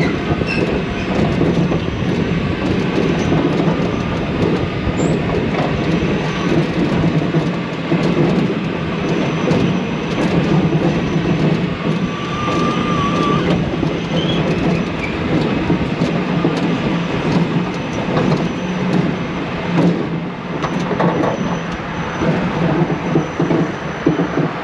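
Coaster car running along its steel track: a steady rattle and clatter of wheels on rail over a constant low hum, with brief faint squeals.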